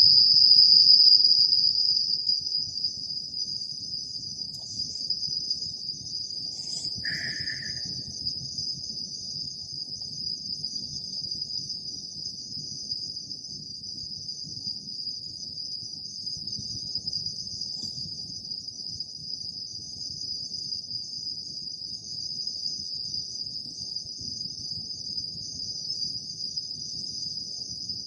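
A chorus of autumn-night insects chirping in one steady high-pitched band, louder for the first couple of seconds, over a faint low rumble. About seven seconds in, a single short lower-pitched call sounds briefly.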